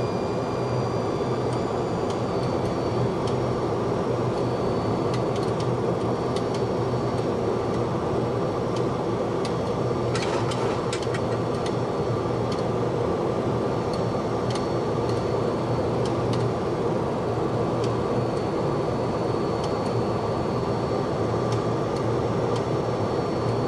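Steady flight-deck noise of a Boeing 737-200 on final approach with the landing gear down: a constant hum of airflow and engines with a thin high whine. A few faint clicks come about ten seconds in.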